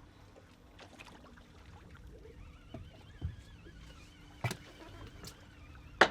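Deck sounds on a small fishing boat: a steady low hum with a few sharp knocks, the loudest near the end, and a faint wavering whistle in the middle.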